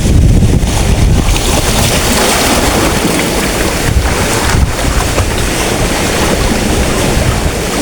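Strong wind buffeting the microphone with a heavy low rumble, over big waves breaking and washing up the beach in a broad hiss that swells after about a second and a half.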